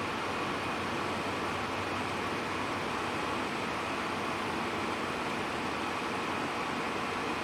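Steady engine, road and ventilation noise inside a moving bus.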